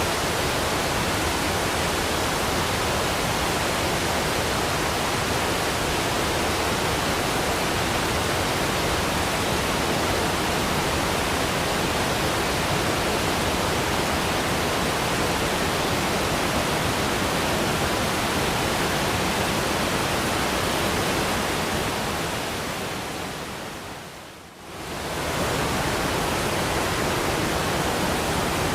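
Waterfall rushing in a steady, even roar of water noise. The sound fades down and comes straight back up once, about three-quarters of the way through.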